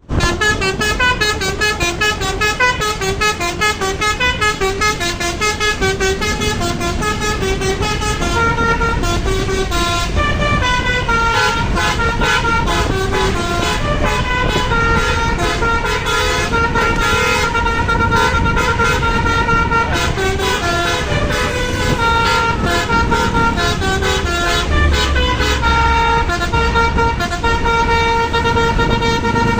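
Bus 'basuri' melody air horn, a multi-trumpet telolet horn, playing a quick run of changing notes and then long held chords, over the bus's engine running.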